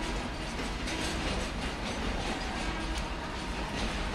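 Freight train of container wagons rolling past, a steady rumble with the wheels clattering over the rail joints.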